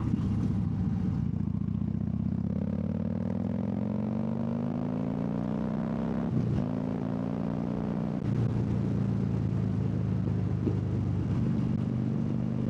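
Harley-Davidson V-twin engine under acceleration, its pitch climbing steadily, with a gear change about six seconds in and another about eight seconds in, then running steadily.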